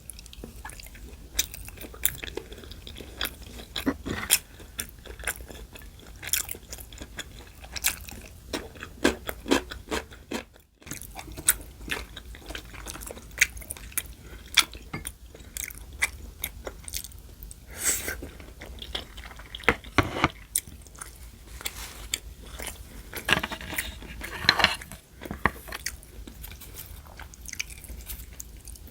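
Close-miked chewing and crunching of food, with many short, sharp crunches and a few longer noisy bites.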